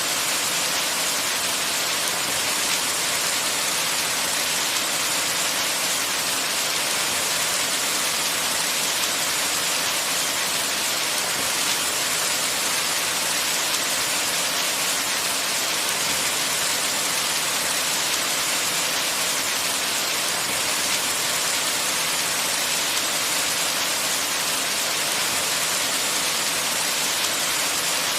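Steady rain on a window, an even hiss that stays the same throughout with no single drops or thunder standing out.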